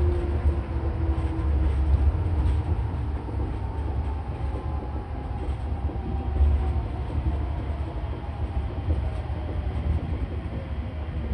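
Rubber-tyred Nippori-Toneri Liner guideway train heard from inside the car: a steady low rumble with a motor whine that slowly falls in pitch as the train slows.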